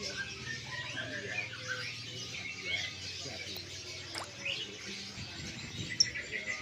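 Many caged songbirds chirping and calling at once, a dense overlapping chorus of short tweets and whistles. A single sharp click cuts through near the end.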